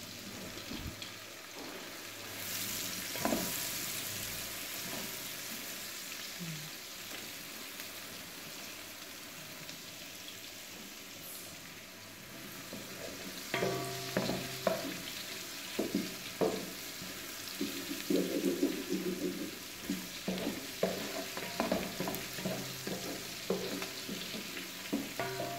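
Garlic and onion sizzling in butter in a large aluminium pot, a steady frying hiss as they are sautéed toward browning. A wooden spatula stirs through them, and from about halfway it scrapes and knocks against the pot often.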